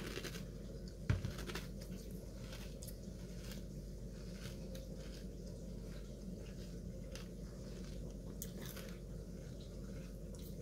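A person chewing a mouthful of crunchy flaked cereal in milk with the mouth closed: soft, irregular crunches over a steady low hum, with one sharper click about a second in.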